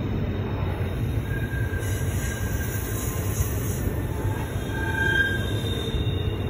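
Double-stack intermodal freight train rolling through a tight curve: a steady low rumble of steel wheels on rail, with thin, high flange squeals coming and going, the loudest about five seconds in.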